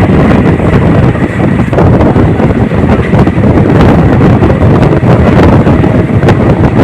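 Moving passenger train running along the track, a steady loud rumble with faint scattered knocks, under heavy wind buffeting the microphone.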